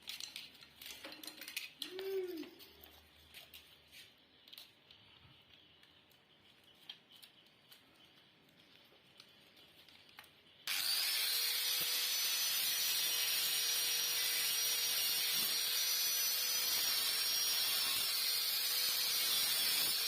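Light clicks and knocks of handling, then about halfway through a power tool switches on abruptly and runs steadily with a loud hiss and a high whine that dips slightly now and then.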